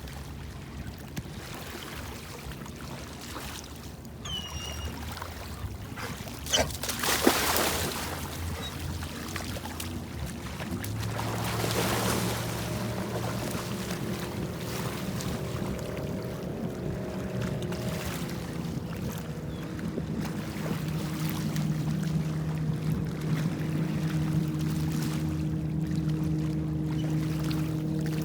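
A boat's motor running steadily, its pitch stepping up and down a few times and getting louder toward the end, over water and wind noise. A bird chirps twice early on.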